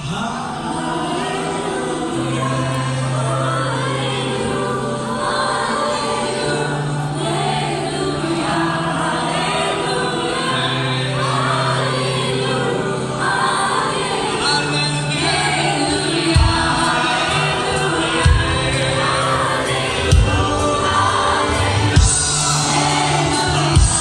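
Worship music: a group singing over held bass notes, with strong beats about every two seconds in the later part.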